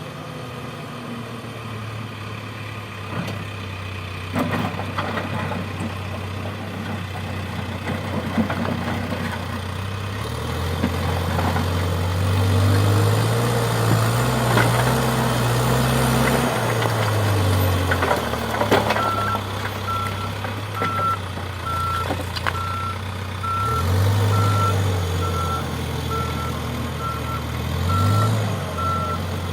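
Diesel engine of a heavy earthmoving machine at work, revving up and settling back several times, with scattered knocks and clanks. About two-thirds of the way through, a reversing alarm starts beeping steadily.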